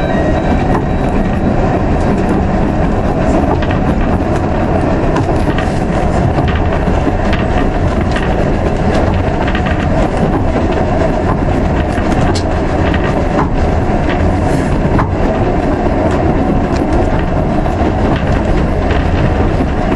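Isle of Man Steam Railway narrow-gauge carriage running along the track, heard from inside the carriage. Wheels on the rails make a steady rumble with scattered sharp clicks.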